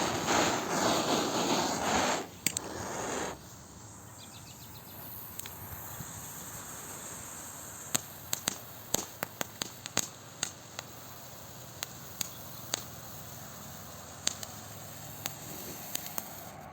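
Small flower pot fountain firework spraying with a steady hiss that dies away about three seconds in. After that comes a faint hiss with a string of scattered sharp crackles.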